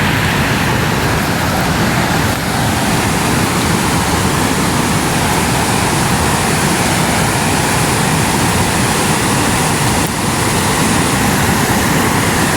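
Waterfall's fast, high-pressure water rushing in a loud, steady torrent.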